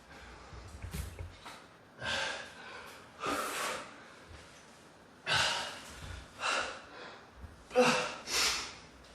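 A man breathing hard in loud, gasping breaths, about six heavy breaths with short pauses between them: winded and recovering just after a timed all-out exercise set.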